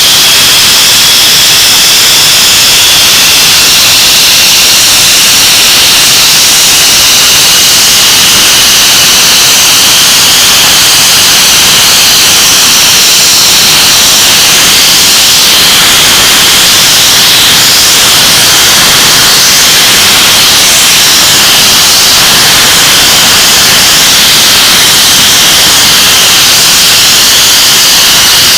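English Electric Lightning's Rolls-Royce Avon turbojets running at power on a ground run: a loud, steady jet rush with a high whine that wavers slightly.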